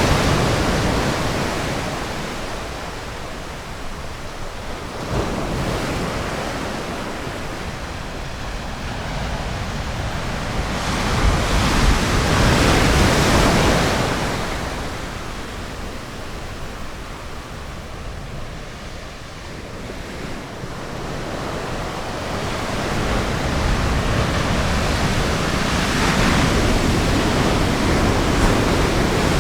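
Ocean surf washing onto a beach, swelling and ebbing in slow waves: a loud surge near the start and another about twelve seconds in, then building again toward the end.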